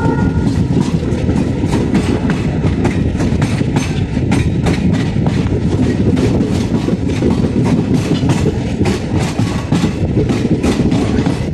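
Passenger train coaches running on the rails, heard from an open coach door: a steady rumble of the running gear with rapid, uneven clickety-clack of the wheels over rail joints.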